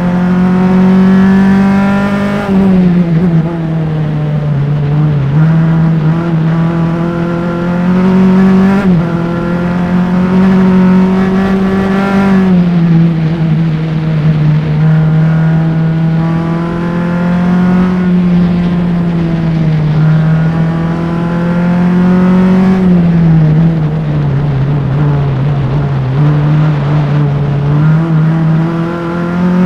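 Single-seater race car's engine running hard at high revs, picked up by engine-mounted microphones, its pitch falling and climbing again several times as the driver lifts, brakes and shifts through corners.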